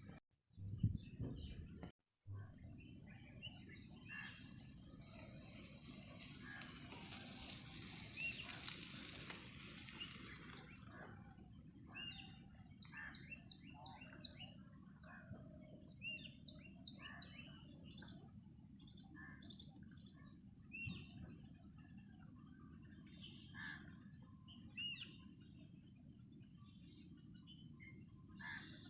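Insects, likely crickets, trilling steadily at a high pitch, with many short bird chirps and calls scattered over them and a low steady rumble underneath. The sound cuts out briefly twice in the first two seconds.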